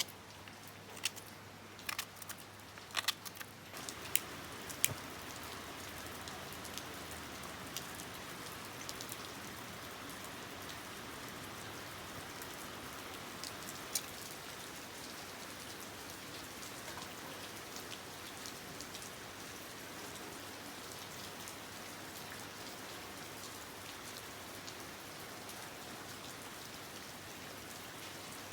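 Light rain falling steadily, with occasional single drops ticking louder. In the first few seconds, before the rain comes up, there are several sharp clicks and taps.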